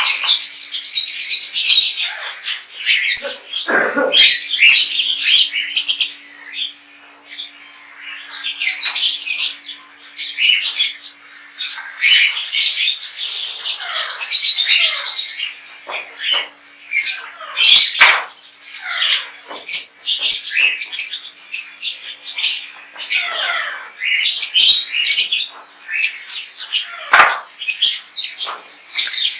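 A roomful of pet parrots chirping and squawking over one another, with many short high calls and some loud calls that slide down in pitch.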